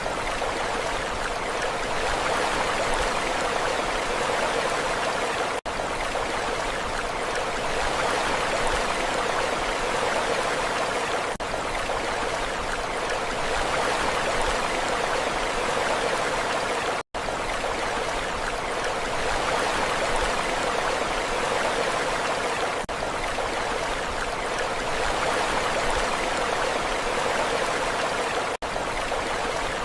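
Steady rushing water with an even, unchanging hiss and no rise and fall of waves. It drops out briefly about every six seconds.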